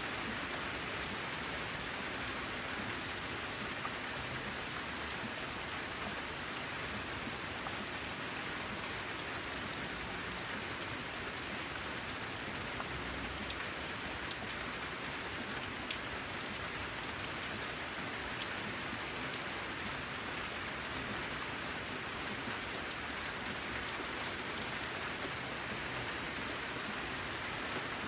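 Steady rain falling on a corrugated zinc roof: an even, continuous hiss with a few sharper drop ticks.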